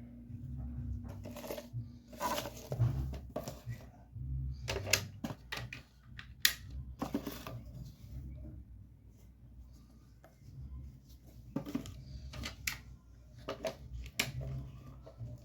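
Plastic toy building bricks being handled and snapped together: irregular sharp clicks and light clatter over a low handling rumble.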